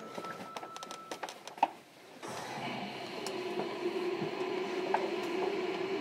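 Interior of a JR Kyushu 305 series electric train car: a scatter of light clicks and knocks, a brief lull, then about two seconds in a steady hum with noise comes on and holds.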